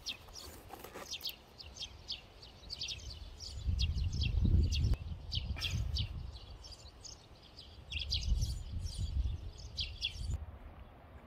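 Small birds chirping in many short, high calls that stop about ten seconds in, over low rumbles that swell twice, near the middle and again later.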